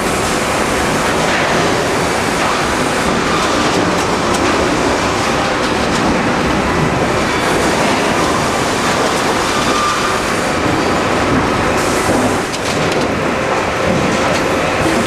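Sawmill line machinery for cutting pallet boards running, a loud, steady, dense mechanical clatter with faint steady tones in it.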